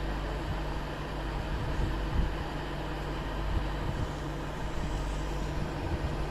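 Train running: a steady rumble with a low hum and scattered low knocks.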